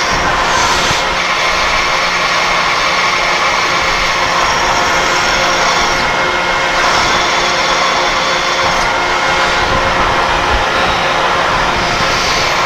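Milling machine spindle running steadily while a drill bit cuts a hole through tough steel, with a high-pitched cutting sound that shifts about half a second in and again between about 6 and 9 seconds.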